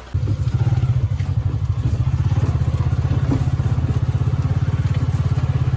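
A small combustion engine running steadily close by, a low rumble with a fast, even pulse. It starts abruptly just into the clip.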